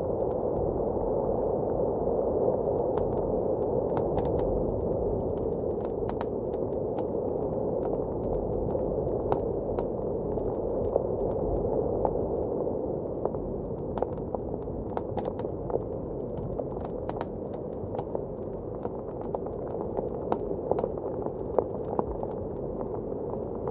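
Fireplace crackling with irregular sharp pops over the steady, muffled rush of blizzard wind outside.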